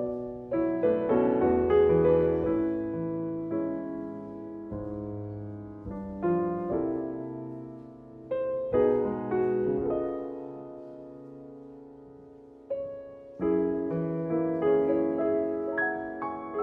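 Solo piano playing a slow, tender piece in phrases, with chords struck and left to ring and die away between soft passages.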